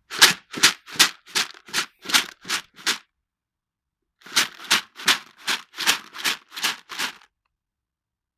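A container of dry cat food being shaken to call a cat: two runs of quick, even rattling shakes, about two and a half a second, with a pause of about a second between them.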